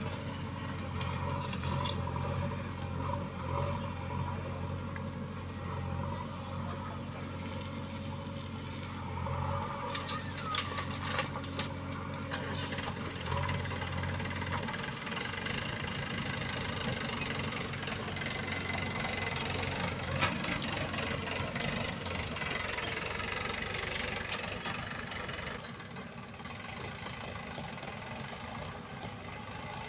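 Heavy diesel machinery engines running steadily. A low, even hum drops out about halfway through, leaving a rougher engine noise, with a few clanks and knocks just before.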